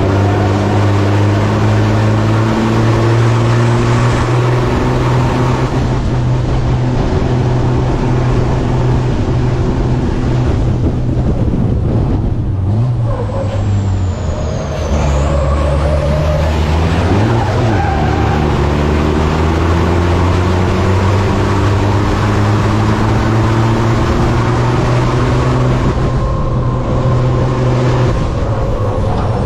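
Racing truck's diesel engine running hard under load, its note slowly climbing and then stepping at gear changes. About halfway through it drops for several seconds to a lower, deeper note before climbing again.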